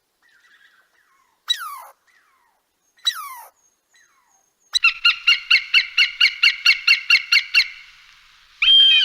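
Bird calls: two sharp falling whistles, then a rapid, even run of about fourteen chattering notes at about five a second, and a short high note near the end.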